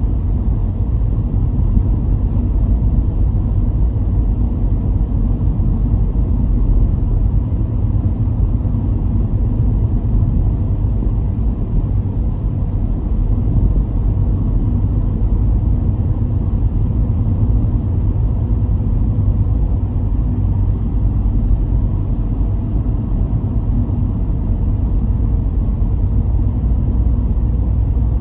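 A car driving at a steady pace: an even, low rumble of engine and road noise that holds without revving or breaks.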